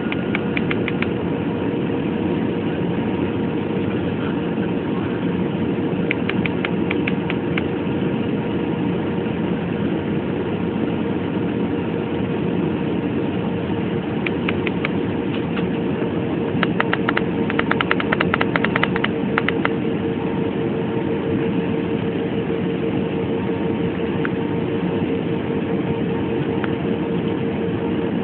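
Jet airliner cabin noise in cruise: a steady, dense rush with a constant hum. A few short runs of rapid faint clicking come about a quarter of the way in and again around the middle and two-thirds through.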